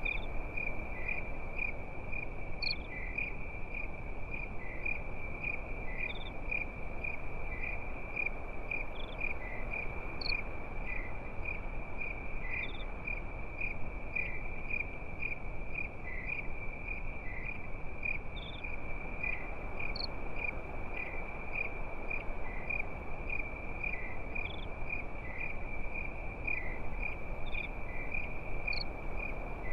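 Crickets chirping steadily at night, a high, evenly pulsing trill with a few scattered higher chirps, over a steady low hiss of background noise.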